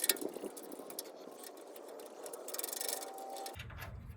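Handling noise from the recording camera or phone being moved and set in a new place: rustling, with a burst of sharp clicks right at the start and scattered light ticks and rattles.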